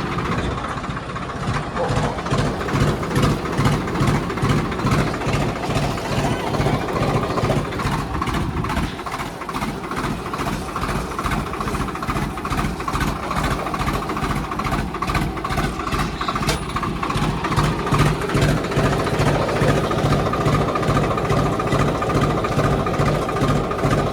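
Tractor diesel engines running hard under heavy pulling load, a steady throbbing with an even beat. The engine sound eases a little about a third of the way in and builds again in the second half.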